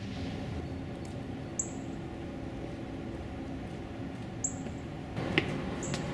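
A small bird's short, high chirps, each falling in pitch, repeating about every second and a half over a steady outdoor background hum. Near the end come a few sharp taps of footsteps on concrete steps.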